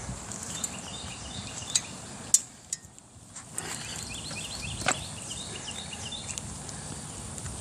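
Bicycles riding along a woodland trail: a low rumble of tyres and wind with a few sharp clicks and knocks, over many short repeated bird chirps and a steady high insect buzz. The rumble drops away briefly about three seconds in.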